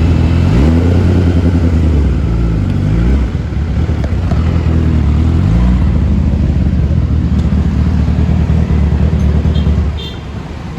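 Kawasaki Ninja ZX-10R's inline-four engine running loud. Its pitch rises and falls a few times, then holds steady, and the sound drops away about ten seconds in.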